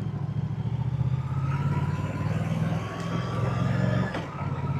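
Moto Guzzi motorcycle's V-twin engine and exhaust running at low speed under light throttle, a steady pulsing rumble that dips briefly about four seconds in.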